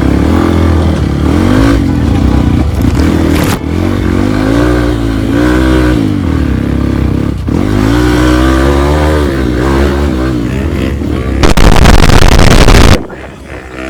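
Trail motorcycle engine revving up and down over and over, its pitch rising and falling with the throttle. About eleven and a half seconds in, a loud rushing noise takes over for a second and a half and cuts off suddenly.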